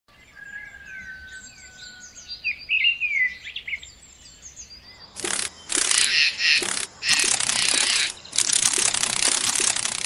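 Birds chirping and whistling with short gliding calls. About halfway through, several long bursts of loud hissing noise drown them out.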